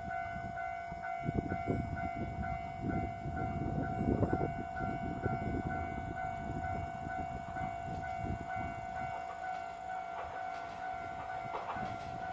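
Diesel railcar running at a station: a low rumble, strongest in the first half and easing off near the end, with a steady high-pitched tone above it.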